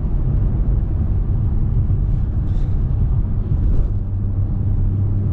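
Engine and road noise inside a moving car's cabin, a steady low rumble, with a low hum that settles in about four seconds in.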